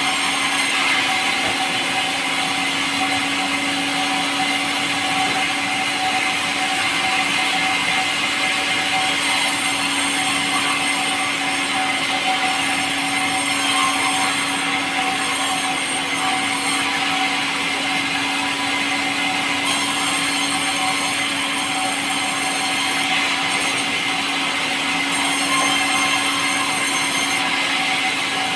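Power saw running steadily as it cuts through pulai wood, a soft, light timber, giving an even hum and whine over a continuous sawing hiss.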